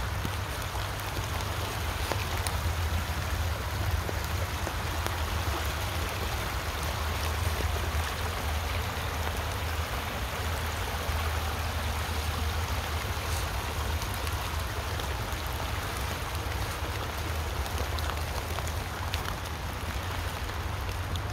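Creek water rushing steadily, mixed with rain falling, over a steady low rumble.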